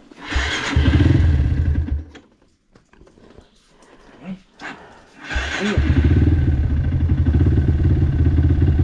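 Dirt bike engine starting, running briefly and dying out about two seconds in, then starting again a few seconds later and idling steadily. It stalls because its idle is set too low.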